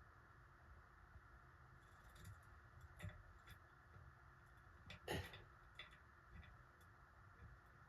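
Faint, scattered clicks of small parts and wires being handled, the loudest about five seconds in, over quiet room tone.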